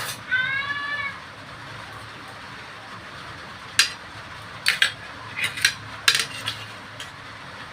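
Serving dishes and a spoon clinking: about eight short sharp clinks come between about four and seven seconds in. Just before them, near the start, there is one short high-pitched call.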